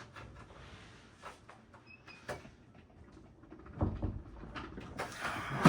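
Light clicks and knocks of hard parts being handled, with a thud about four seconds in and a louder clatter near the end.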